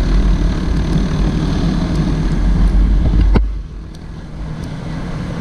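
Honda CG Titan 160 single-cylinder motorcycle being ridden, its engine and road noise mixed with heavy wind rumble. About three and a half seconds in there is a sharp click, and the sound drops to a much quieter steady hum.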